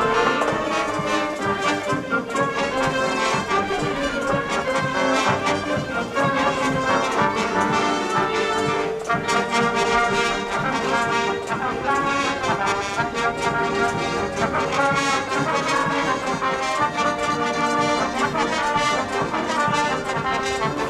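A high-school wind band playing, with the brass (trombones and trumpets) prominent over a steady beat.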